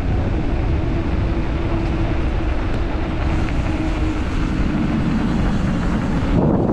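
Steady rushing noise of a moving vehicle, with wind on the microphone and a faint steady hum underneath.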